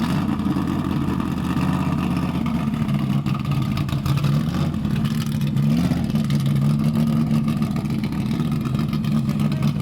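Engine of a motor-swapped Suburban running loudly at low, mostly steady revs as it drives through snow. The revs rise slightly twice, about three and six seconds in.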